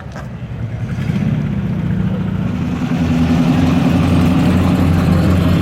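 Car engine running at a low, steady pitch, growing louder over the first three seconds as it comes closer, then holding steady.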